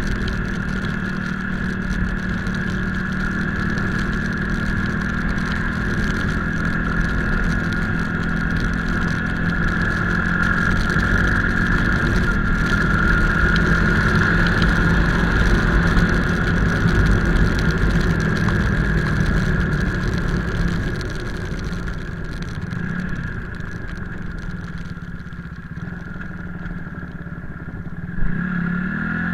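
Motorcycle engine running steadily under way, easing off and getting quieter about two-thirds of the way through. A short knock near the end.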